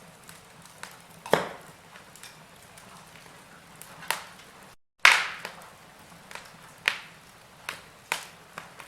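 Wood fire crackling, with irregular sharp pops over a faint hiss. The sound cuts out for a split second about five seconds in, and a loud pop follows at once.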